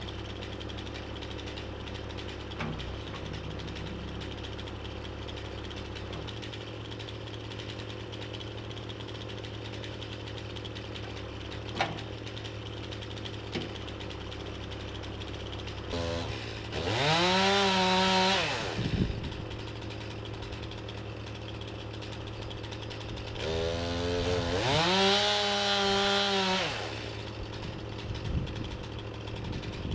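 Chainsaw idling steadily, then run up to full speed twice for about two to three seconds each time before dropping back to idle, while cutting to fell a tree.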